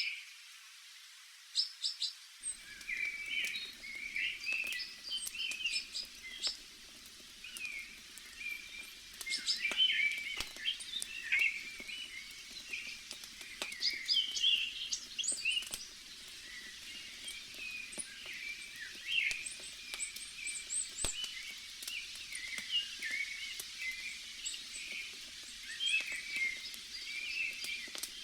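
Many small birds chirping and twittering, with sharp campfire crackles scattered among them. A faint low steady rumble joins about two and a half seconds in.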